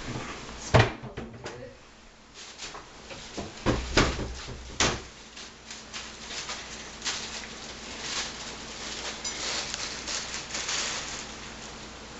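Objects handled during food preparation: three sharp knocks or clatters, the first about a second in and the loudest, then lighter clicking and rustling.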